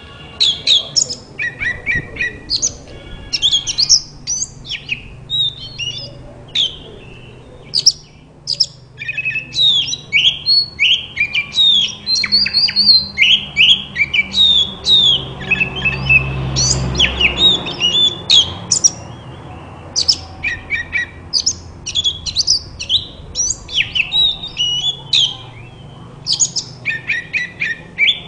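Oriental magpie-robin (kacer) singing: a fast, continuous run of short, varied whistled and chirped notes, many falling in pitch, broken by brief pauses. A low rumble swells and fades about halfway through.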